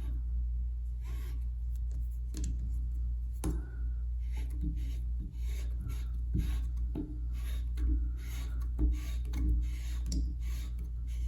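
Hands working on threaded shower fittings, wrapping thread tape and turning on an elbow fitting: a series of short rubbing and scraping strokes, about one or two a second, over a steady low hum.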